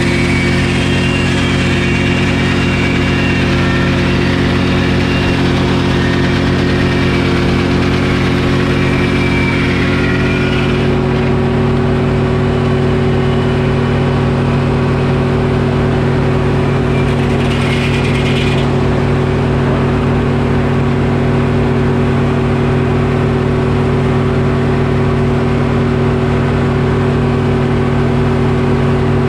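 Detroit Diesel engine running steadily as it drives a Frick sawmill, with the saw cutting oak over it for the first ten seconds or so. At about eleven seconds the cutting sound stops and the engine note rises slightly as the load comes off. A brief rasp comes near the end of the twentieth second.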